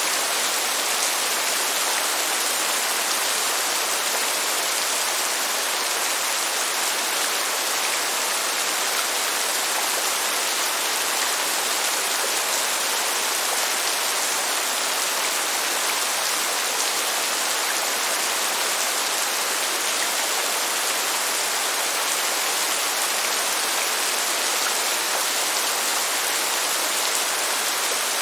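Steady rain: an even, unbroken hiss with no thunder.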